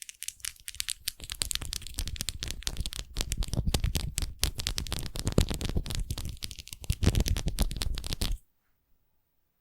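Close-up foam crackling and popping: a dense run of small wet crackles that grows louder about three seconds in and cuts off suddenly near the end.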